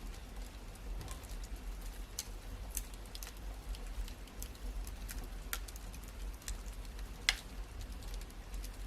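Wood fire crackling, with irregular sharp pops and a louder pop about seven seconds in, over a low steady rumble.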